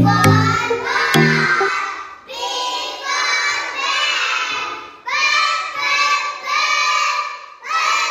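A group of young children singing together in short phrases, with a short pause between each. Backing music with a low beat runs under the first second and a half, then stops.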